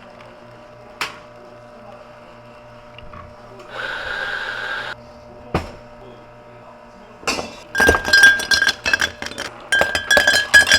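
Ice and glassware clinking and clattering in a cafe as drinks are made: a few single clinks, a short hiss of about a second near the middle, then a loud run of rapid clinks and rattling near the end, over a steady low machine hum.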